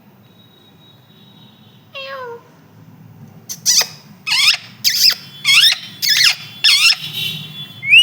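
A pet parrot calling: one softer call sliding down in pitch about two seconds in, then a run of about six short, loud calls, each sliding steeply downward.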